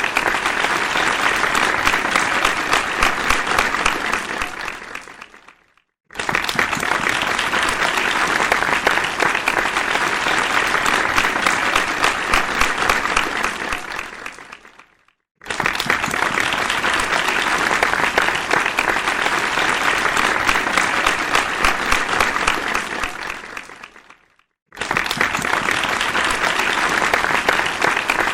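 Audience applause: many people clapping in a dense, steady crowd. The clapping dies away to silence three times, and each time it starts again abruptly at full strength a moment later, about six seconds, fifteen seconds and twenty-five seconds in.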